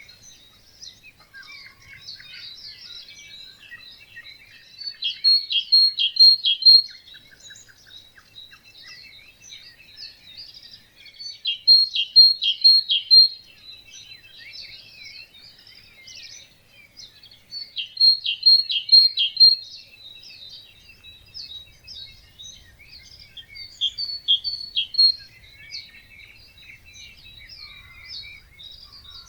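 Many songbirds singing together in a dawn chorus. One bird close by repeats a loud, short phrase of rapid notes about every six seconds, four times.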